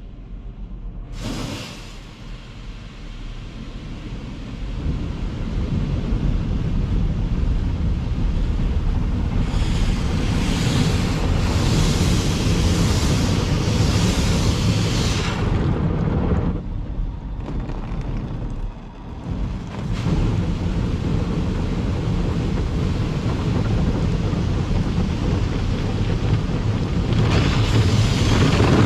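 Daifuku TWINFECT FORCE gantry car wash running over a car: a steady rushing of water and machinery, with hissing spray surges, one of several seconds about a third of the way in and another near the end, and a brief lull in between.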